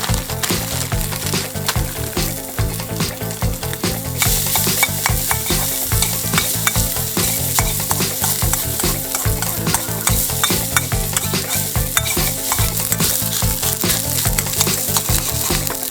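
Frozen fried rice sizzling in a hot Chinese wok as it is stir-fried, with rapid clicks and scrapes of the utensil against the pan. The sizzle grows louder about four seconds in.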